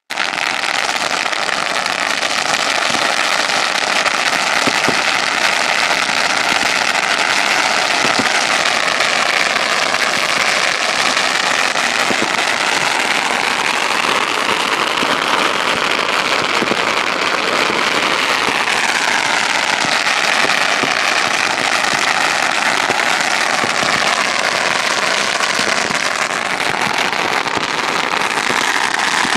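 Firecracker rolls going off in a dense, continuous crackle of rapid bangs, loud and unbroken throughout.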